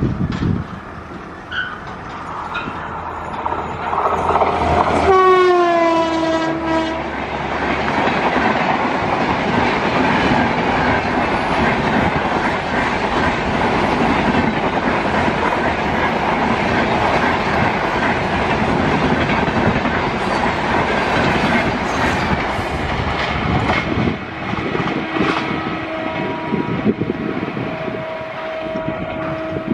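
An Indian Railways electric locomotive sounds its horn as it comes past, the pitch dropping slightly, and then a long rake of LHB passenger coaches rushes by with a steady rumble and clatter of wheels over the rails. Near the end, after the rushing dies down, a fainter steady horn note sounds.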